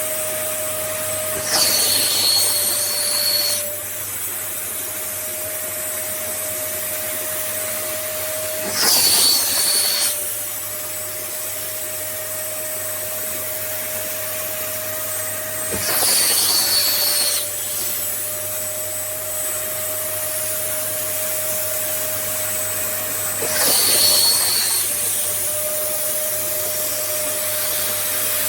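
Vacmaster SCA0801 carpet spot cleaner's suction motor running steadily with a thin whine. About every seven seconds, four times, it surges louder for a second or two with a high whistle, as the nozzle is worked.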